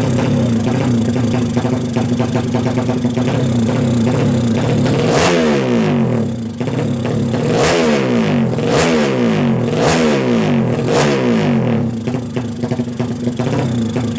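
Kawasaki KLX drag bike's 180 cc single-cylinder four-stroke engine idling steadily, then revved in about five sharp throttle blips, each note falling back toward idle.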